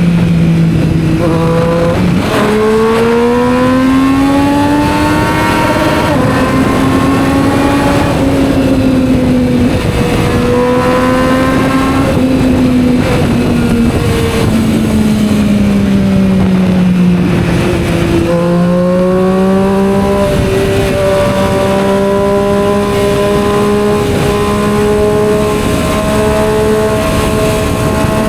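Triumph Street Triple 765 R motorcycle with a Yoshimura aftermarket exhaust, engine running under way. It climbs in pitch as the bike accelerates over the first few seconds, drops back off the throttle for a few seconds in the middle, then picks up again and holds a steady cruising note.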